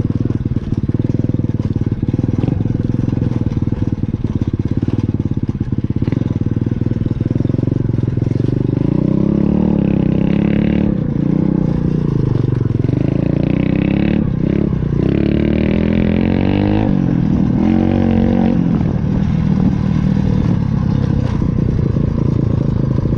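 Pit bike's small single-cylinder engine running as it is ridden through mud, its pitch rising and falling again and again as the throttle is worked.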